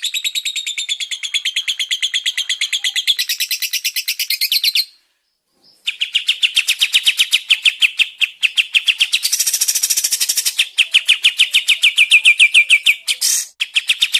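Songbird song in fast trills of evenly repeated high notes, the rapid 'tembakan' burst style used to train captive songbirds. The song stops for about a second near the middle, then resumes as a lower, steady trill with a higher burst partway through.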